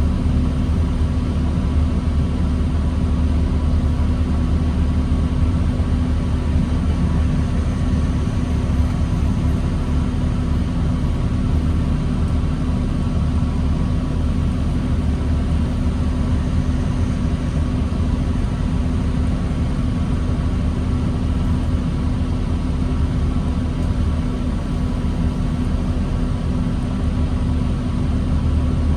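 2009 New Flyer D40LFR diesel transit bus engine running steadily in stop-and-go traffic: a low, even drone with a faint steady whine above it, with no revving or change in pitch.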